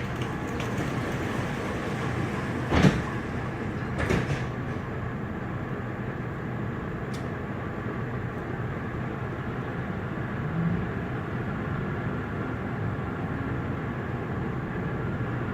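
Frankfurt U-Bahn train running, heard on board: a steady rumble of wheels and traction motors, broken by two sharp knocks about three and four seconds in, the first the louder.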